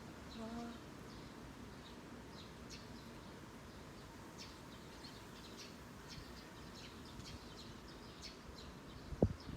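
Eurasian tree sparrows chirping, many short high chirps scattered throughout. A sharp low thump sounds near the end.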